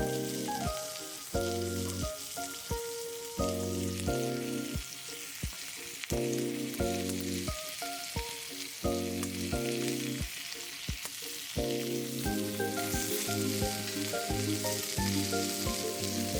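Food sizzling and popping as it fries over a fire: a steady hiss with scattered crackles, under background music of short, evenly paced notes.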